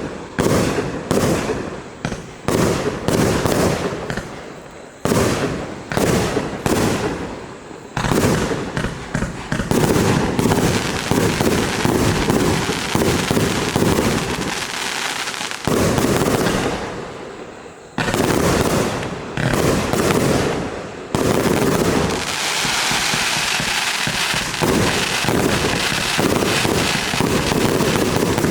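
Compound firework cake of 25 and 30 mm tubes firing shot after shot. At first the launches come separately, about two or three a second. They then speed up into volleys that run almost together, and the last few seconds are one dense, continuous run of shots.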